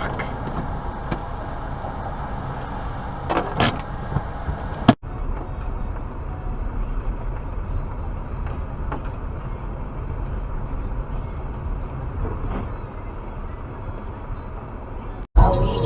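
Steady road and engine noise from a moving vehicle, with a few short knocks about three and a half seconds in. About five seconds in the sound breaks off abruptly and another stretch of steady driving noise follows.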